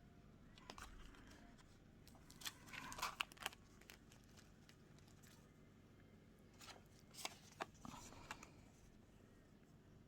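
Faint paper rustling and handling, with a few short clicks and crinkles in two clusters, about a third of the way in and again past the middle.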